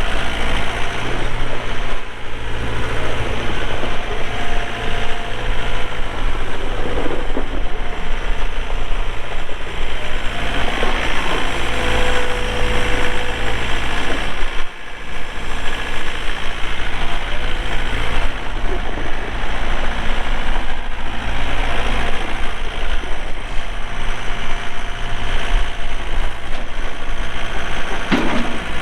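The John Deere 4320 tractor's 48 hp Yanmar diesel engine running steadily, with a brief dip in level about halfway through and a short sharp sound near the end.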